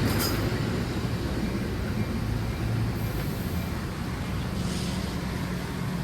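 Steady low rumble of vehicle noise, with a brief click about a quarter second in.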